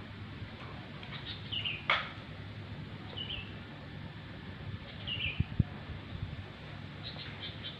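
A small bird chirping, short high notes every second or two, over a steady outdoor background hum. A sharp click about two seconds in and a few low thumps past the middle.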